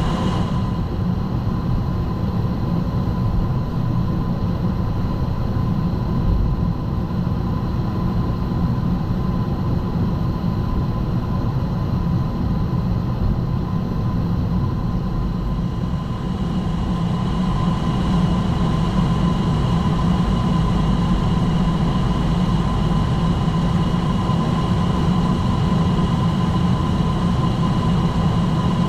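Steady flight-deck noise of a Boeing 757-200 freighter: a low rumble of engines and airflow with a few steady high whining tones, slightly brighter from about halfway through.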